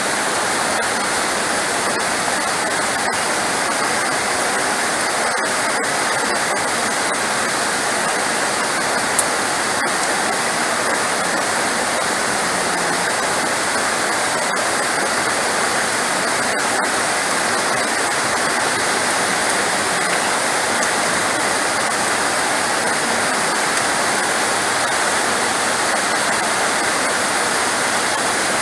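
Heavy rain falling as a steady, dense hiss with no thunder, and a single brief tick about nine seconds in.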